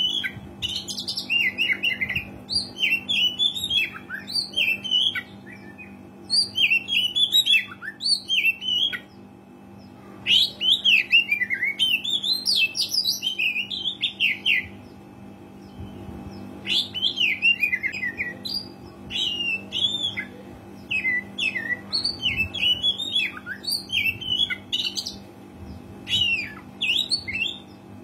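Oriental magpie-robin (kacer) singing a varied song of rapid whistles and chirps in bursts of a few seconds, broken by short pauses, over a faint steady low hum.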